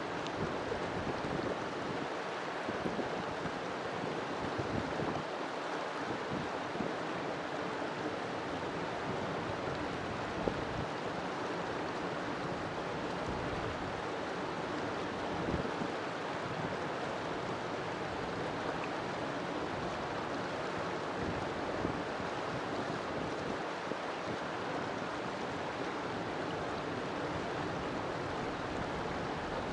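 River water flowing and splashing steadily over rocks, with a continuous rushing and small irregular splashes.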